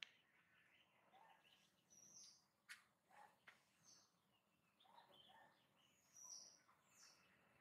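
Near silence with a few faint, scattered high bird chirps and a couple of soft clicks.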